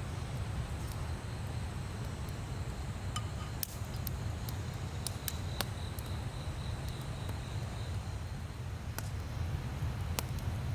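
Wood fire crackling in an open campfire, with sharp pops scattered irregularly through it over a steady low rumble.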